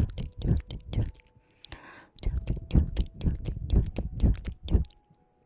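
Wet tongue clicks and mouth sounds close to the microphone, about three a second. There is a short break about a second and a half in, holding a soft hiss, then the clicks resume and stop near the end.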